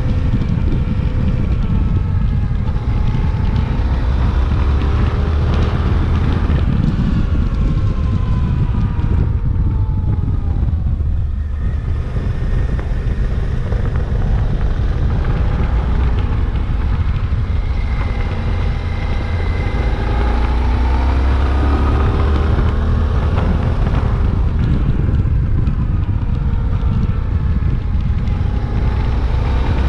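Suzuki V-Strom 800DE's 776 cc parallel-twin engine running under way, with wind rushing over the microphone. The engine note falls away and eases off about ten seconds in, then climbs again as the bike accelerates from about twenty seconds in.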